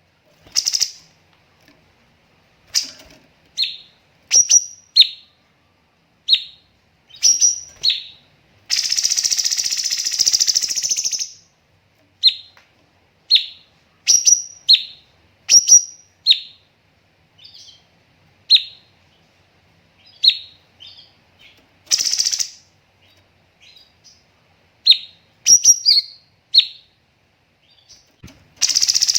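Cucak cungkok songbird calling: a string of short, sharp chirps with pauses between them, broken by a harsh rattling burst about nine seconds in, a brief one past the twenty-second mark, and another starting near the end.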